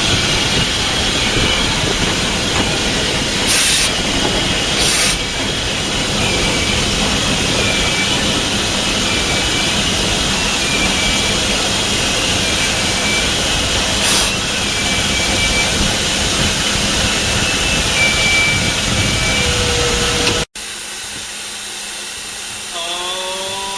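Cab of ET&WNC No. 12, a narrow-gauge 4-6-0 steam locomotive, under way: a loud steady rush of running noise and steam hiss, with short high squeals repeating about once a second. After an abrupt cut about twenty seconds in it is quieter, and near the end the steam whistle starts, rising in pitch.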